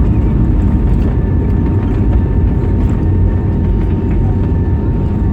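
Steady, loud low rumble inside the cabin of an Airbus A320neo rolling on the runway after landing, with a faint steady engine whine above it.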